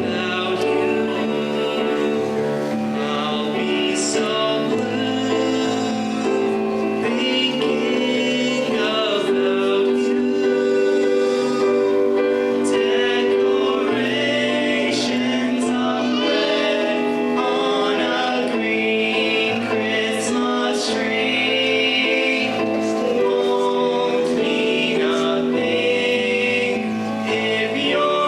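Choir singing a held, chordal song in parts.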